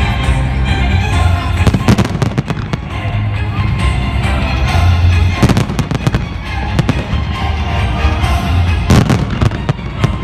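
Fireworks bursting in several volleys of sharp bangs, about 2 seconds in, again around 5 and 7 seconds, and a cluster near the end, over loud music that plays throughout.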